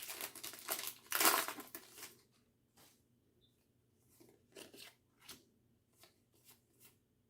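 A foil Pokémon booster pack being torn open, a crinkly ripping for about the first two seconds, followed by faint scattered rustles and flicks as the cards are handled.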